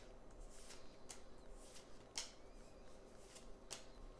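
Pokémon trading cards being flipped through one by one: a series of soft card-on-card swipes, about two a second, the loudest a little after two seconds in.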